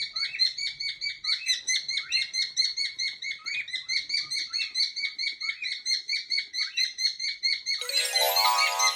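Pet cockatiels chirping in a quick, even rhythm, about five short chirps a second. Near the end a louder call with a rich, buzzy tone joins in over the chirping.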